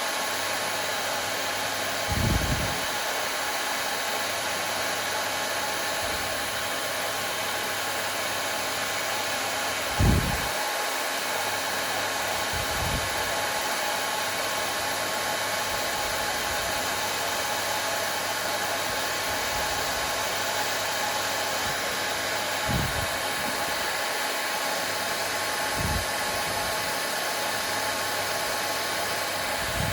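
Hair dryer running steadily: a constant rush of blown air with a faint steady motor whine. A few short, soft low thumps come now and then, the strongest about ten seconds in.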